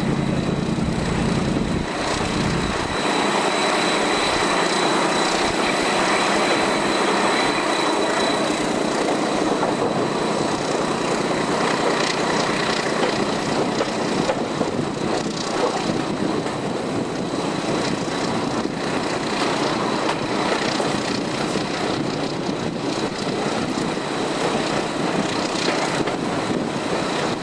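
Moving diesel-hauled train heard from an open window: a steady rush of wind and wheel-on-rail noise, with a low hum that fades about three seconds in.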